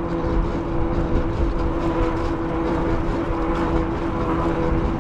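Riding noise from a moving e-bike: steady wind rumble and road noise, with a steady whine from the electric drive motor at a constant speed.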